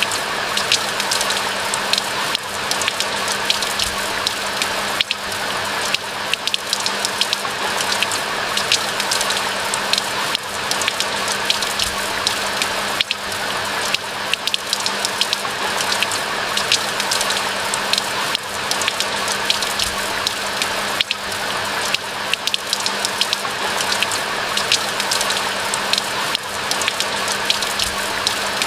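Steady rain falling in a dense patter of many individual drop hits, even throughout, with a faint steady low hum underneath.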